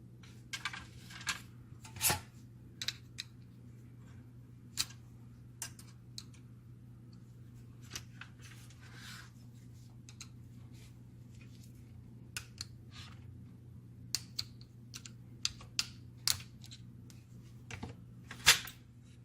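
Irregular clicks, taps and short scrapes of small plastic and metal parts being handled while a laser printer fuser unit is taken apart or reassembled, over a steady low hum. The loudest click comes near the end.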